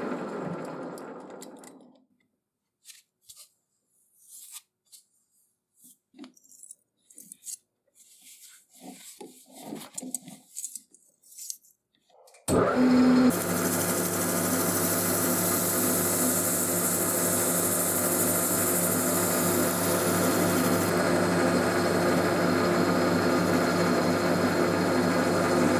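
A workshop power tool's electric motor winds down, followed by light clicks and handling knocks. About halfway through, the motor starts abruptly and runs steadily, with a bright hiss of the tool working the steel or wood for several seconds before the hiss stops and the motor keeps running.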